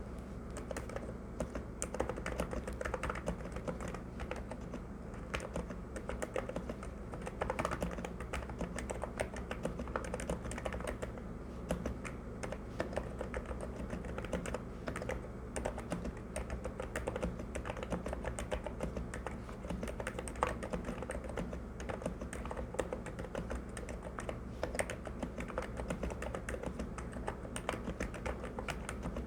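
Continuous fast typing on a NIZ X108 electro-capacitive (EC) keyboard with 35 g switches and PBT keycaps: a dense, steady stream of soft key clicks and bottom-outs.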